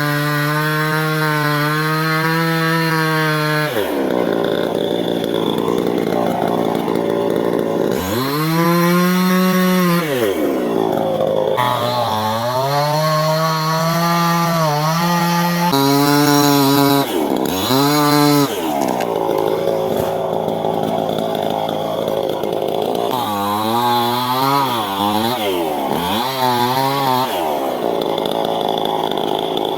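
Two-stroke chainsaw cutting a tree. The engine revs up and down over and over, and in longer stretches its tone turns rough and noisy as the chain works through the wood.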